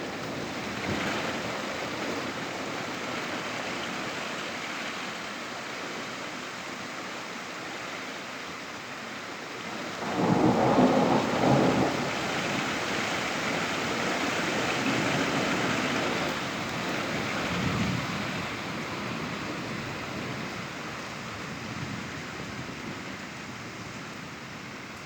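Thunderstorm: steady heavy rain, with a loud peal of thunder about ten seconds in and further rumbling over the next several seconds.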